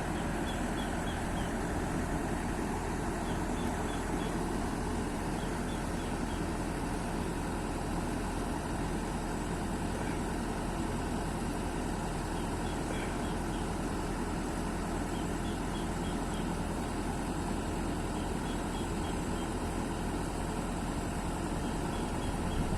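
Excavator's diesel engine idling steadily, an even low hum that holds without revving.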